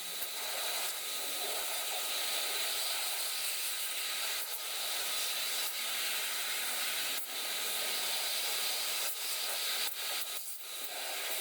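Pressurized spray nozzle hissing steadily, with a few brief breaks where the flow is cut and restarted.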